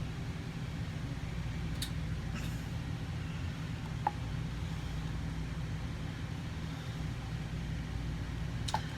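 A steady low mechanical hum, with a few light clicks and taps, one about four seconds in and another near the end.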